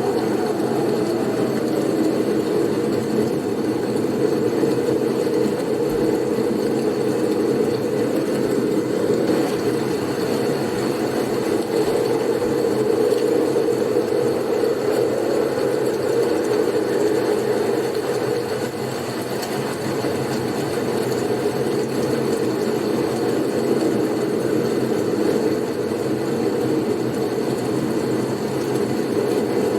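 Blizzard wind: a steady low rushing howl that swells and eases slowly, with a thin steady high tone above it.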